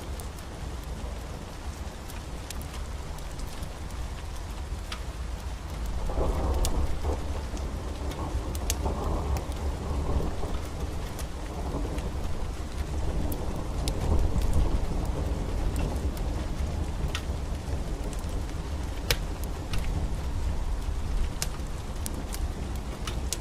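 Steady rain with rolling thunder that swells about six seconds in and peaks again a little later, with scattered sharp ticks over it.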